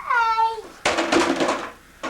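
A toddler's voice: a short high call that falls in pitch, then a longer breathy, noisy vocal sound.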